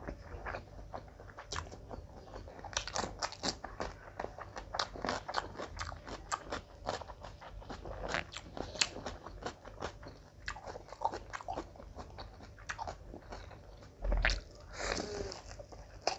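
Close-miked chewing of a mouthful of mutton biryani eaten by hand: a steady run of quick wet mouth clicks and smacks. There is a louder low thump about fourteen seconds in.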